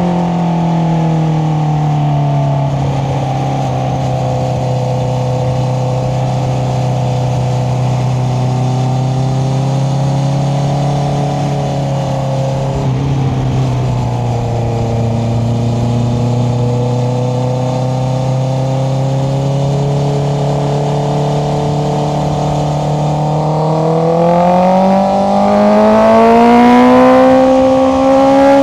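Honda CBR650R's inline-four engine through an Akrapovic exhaust, easing off, then running at a steady pitch. In the last few seconds it accelerates, the pitch rising and growing louder.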